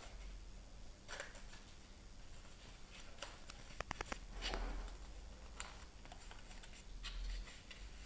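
Faint handling noises: a few brief rustles and scattered light clicks, with a quick run of ticks about four seconds in, over a low steady hum.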